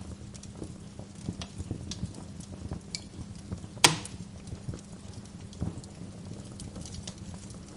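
Wood fire crackling in a fireplace: irregular small pops and ticks, with one loud sharp pop about four seconds in, over a low steady hum.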